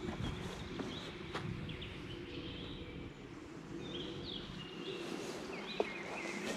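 Songbirds chirping and calling in short whistled phrases, busiest in the second half, over a steady low rumbling background noise. A couple of sharp clicks stand out, one early and one near the end.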